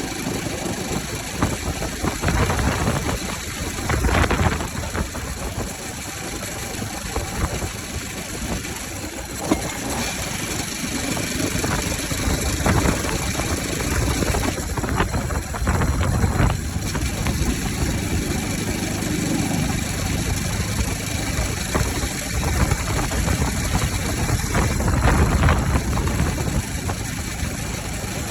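Bajaj Pulsar RS200's single-cylinder engine running with its air filter removed, idling with several throttle blips that rise and fall in pitch.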